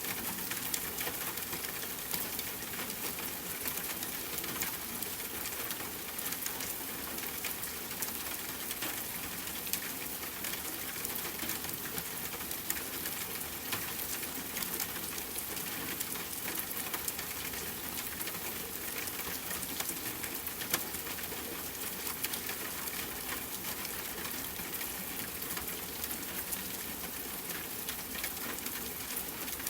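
Steady rain blended with a crackling wood fire: many small pops and snaps over an even hiss, with an occasional louder pop.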